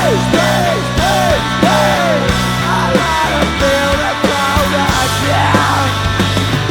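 A rock band playing live and loud. A melody line bends up and down over held low notes and steady drum hits.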